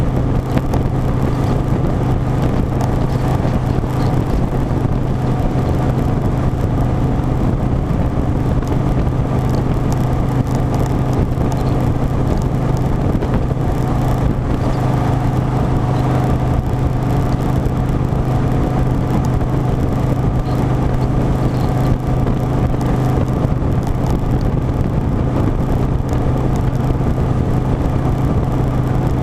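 Harley-Davidson Softail Standard's V-twin engine running steadily under way, with heavy wind noise over the microphone.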